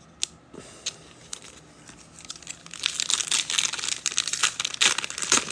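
A trading-card pack's wrapper being torn open and crinkled, first a few light crackles and then a dense, loud crinkling from about three seconds in.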